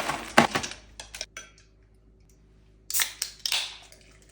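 Short clattering and rustling handling noises, in two bursts: one in the first second and another about three seconds in.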